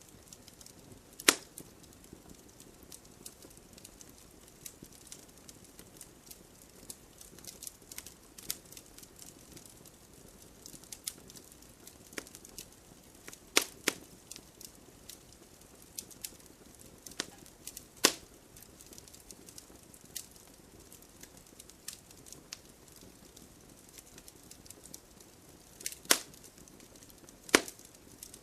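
Wood campfire burning, with frequent small crackles over a low hiss and a handful of sharp, louder pops scattered through, the biggest about a second in, near the middle and twice near the end.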